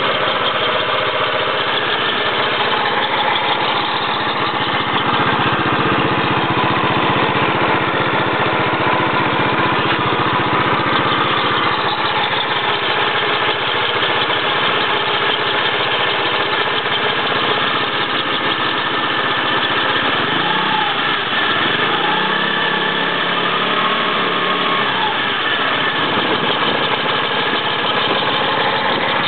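A machine running with a faulty bearing, giving a loud, steady mechanical noise with several fixed tones held through it: the abnormal noise of a failed bearing.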